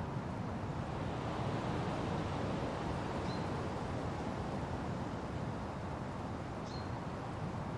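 Wind blowing steadily through forest trees, a rushing noise that swells a little early on. A bird gives a short high chirp twice over it.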